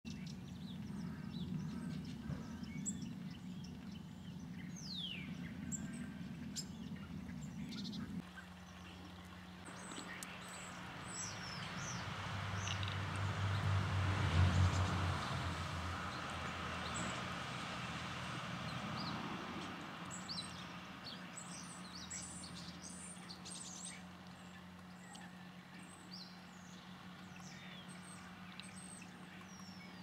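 Tits and other small birds giving short, high calls and chirps throughout, over a steady low hum. A low rumble swells up around the middle and fades away again.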